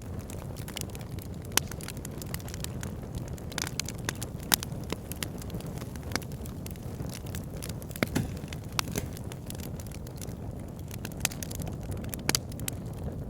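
Wood fire in a log burner crackling, with irregular sharp pops and snaps over a steady low rumble of the flames.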